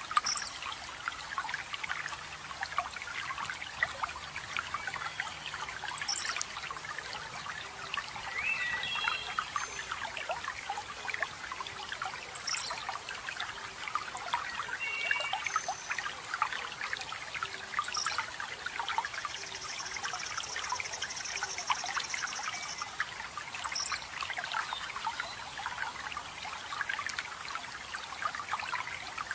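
Running water trickling and splashing steadily, with forest birds calling over it. A high, falling call repeats about every six seconds, short chirps come in between, and a buzzy trill lasts about four seconds around two-thirds of the way through.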